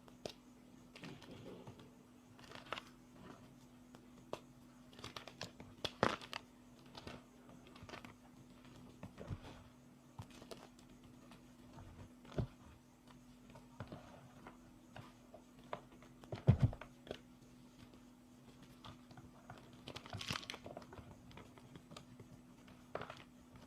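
Hard reformed gym chalk being crushed and crumbled, with irregular crisp cracks and crumbling crackles; the sharpest snaps come about 6 and 16 seconds in.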